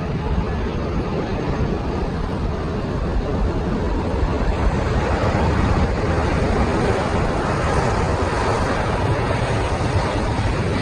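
Jet engines of a landing Airbus airliner, a steady rumbling roar that swells a little midway through.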